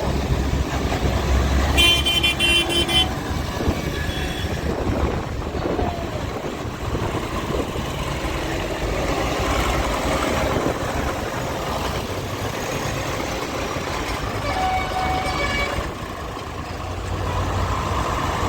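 Engines running, likely tractors, with a vehicle horn sounding for about a second near the start and again, more faintly, near the end.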